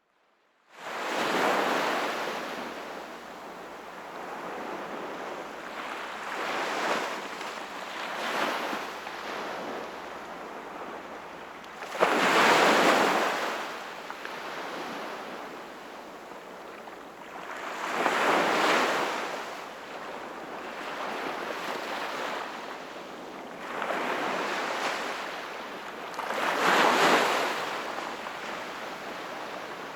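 Sea waves breaking and washing up the shore, surging and ebbing every few seconds over a steady wash of surf. The sound cuts in suddenly about a second in, after a moment of silence.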